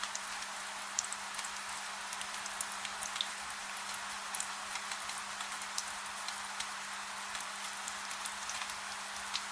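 Steady gentle rain, a soft even hiss with many separate drop ticks scattered through it, over a faint steady low hum.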